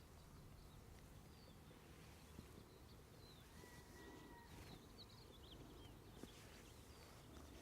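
Near silence: faint outdoor ambience with scattered distant bird chirps, including a thin steady whistle a little before halfway.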